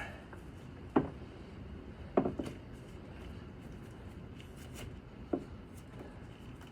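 Hand work on a snowmobile's fuel pump: a few sharp clicks and knocks of tools and parts being handled, about one second in, a small cluster about two seconds in, and a lighter one near the end, over a steady low background.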